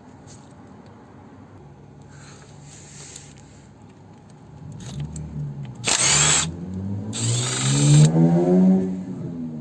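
Cordless power tool running in two short bursts about six and seven seconds in, as bolts come off from under the car, its motor whir rising and then falling in pitch toward the end.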